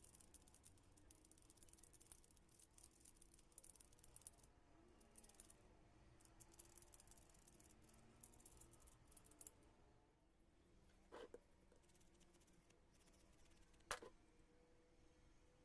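Near silence with faint, rapid ticking and two soft knocks, one about two-thirds of the way in and one near the end.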